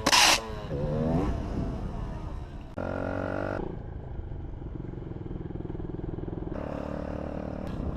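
Yamaha DT125's single-cylinder two-stroke engine: a short burst of noise at the start, a brief rise and fall in revs, then steady running with a louder stretch about three seconds in.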